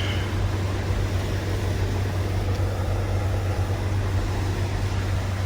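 Steady low mechanical hum of a running engine, unchanging throughout, with an even hiss above it.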